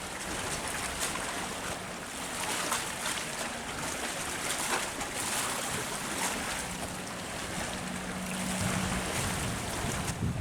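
Wind on the microphone over the wash of water, with a faint low hum rising briefly near the end.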